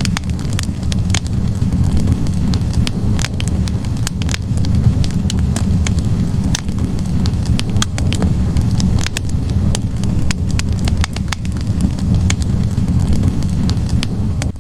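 Wood fire burning in a fireplace: a steady low roar of flames with irregular sharp crackles and pops from the burning logs, several a second.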